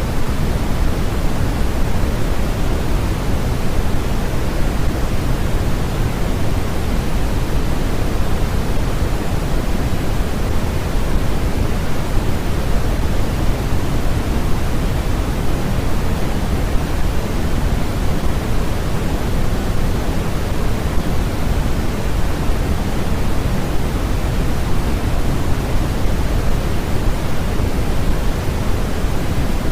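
Steady, unchanging white-noise sleep track: an even hiss with no rhythm or events, weighted toward the low end so that it sounds more like pink noise.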